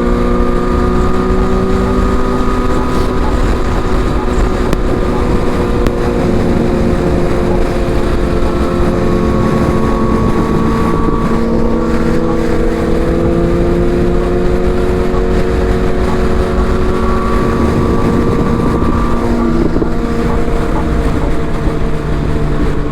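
Sport motorcycle engine droning at a steady highway cruising speed, its pitch shifting only slightly a few times, with wind rushing over the helmet microphone.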